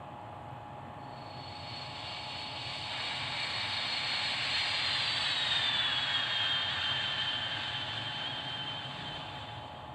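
A vehicle passing by: a rushing noise swells and fades over several seconds, and a high whine drops in pitch about halfway through as it goes past.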